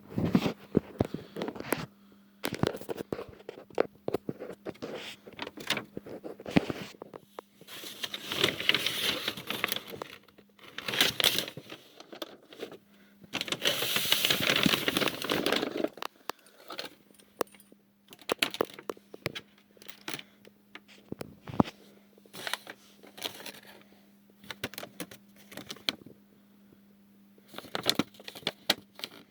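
Irregular crackling, clicking and rustling, louder in a few stretches of a second or two, over a steady low hum.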